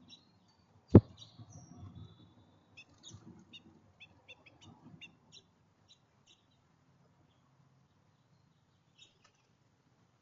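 Small birds chirping at a feeder: a quick run of short, high chirps over the first few seconds, then only a couple more near the end. A single sharp knock about a second in is the loudest sound, followed by a few soft thuds.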